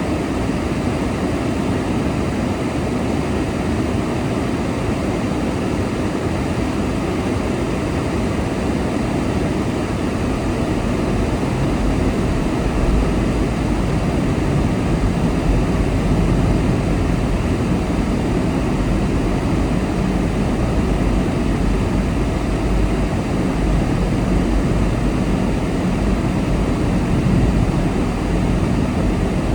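Steady road noise from a car driving at speed: tyre roar and wind rush. The low rumble grows heavier about a third of the way in.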